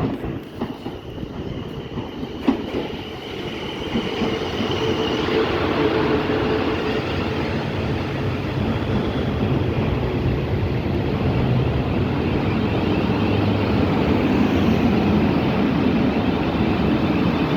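Train running through the station. Its wheels click over rail joints and a high whine sounds for the first few seconds. It grows louder until about six seconds in, then runs on steadily.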